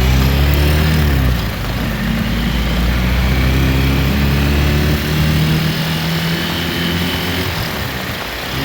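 A motor vehicle's engine running through the noise of heavy rain. Its pitch drops during the first second or so, then holds steady for several seconds.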